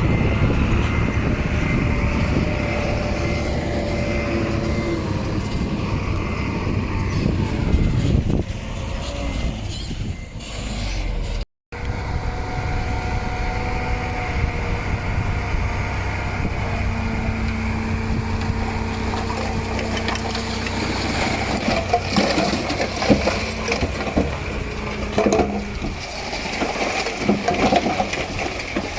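Heavy diesel earthmoving machinery running steadily, with a brief silent break about a third of the way through. From about two-thirds in, irregular clanks and crunching join the engine noise.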